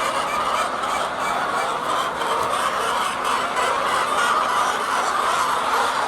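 A large flock of hens clucking together in a continuous, dense chorus of overlapping calls.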